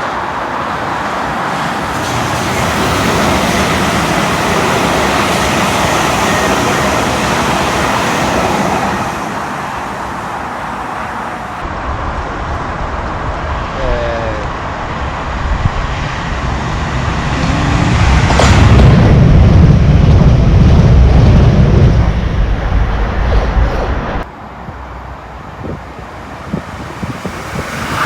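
Steady roar of motorway traffic. It swells into a louder, deeper rumble for several seconds past the middle, then drops off abruptly.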